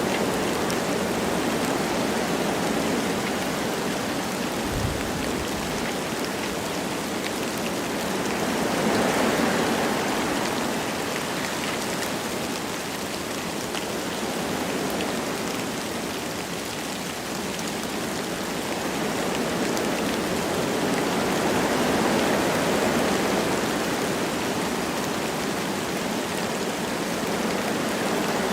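Light rain and wind in a forest: a steady hiss of rain that swells and fades slowly every several seconds as the wind gusts through the trees.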